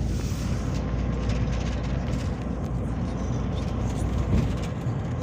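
Peugeot Boxer minibus on the move, heard from inside the passenger cabin as a steady low rumble of engine and road noise, with a single knock about four seconds in.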